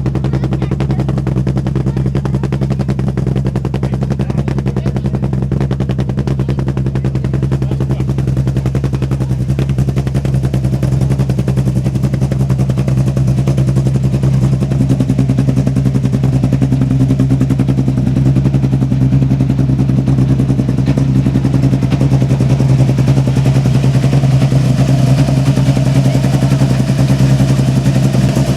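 Rally car engine idling at a steady, unchanging pitch, getting a little louder in the second half.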